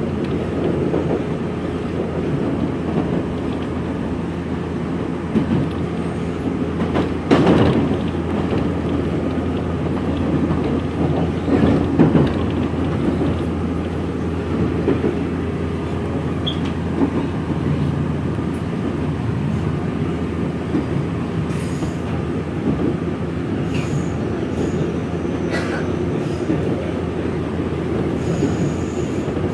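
Nankai 3000 series electric train, resistance-controlled with an electric camshaft controller, running along the line and heard from inside the car: a steady rumble of wheels and motors. There are louder knocks about seven seconds in and again about twelve seconds in.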